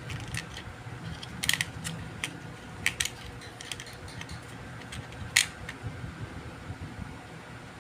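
Scattered light clicks and taps of small parts and tools being handled on an electronics repair bench, over a steady low hum.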